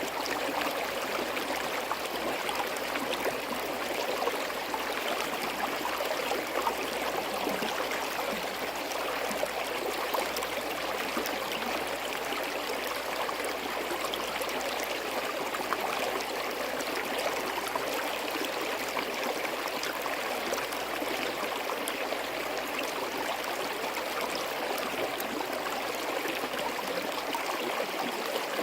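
Shallow forest stream flowing steadily over rocks, a continuous babbling and trickling of water.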